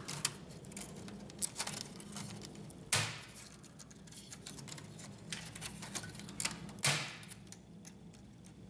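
Small clicks and taps of flat ribbon cables being worked loose from their connectors inside an HP LaserJet P1102 laser printer, with two louder sharp clicks, about three seconds in and again near seven seconds.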